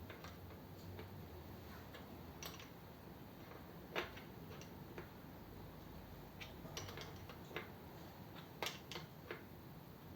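Scattered light clicks and taps from hand work on small fittings, irregular, with the sharpest about four seconds in and a quick cluster near the end.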